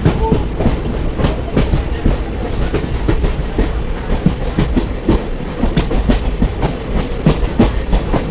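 Passenger train running on the rails: a steady rumble with many sharp, irregular clicks of the wheels over the track.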